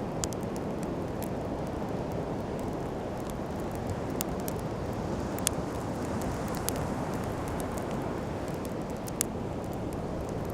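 Wood campfire crackling, with scattered sharp pops, the loudest about halfway through and again near the end, over a steady low rushing background of sea and wind.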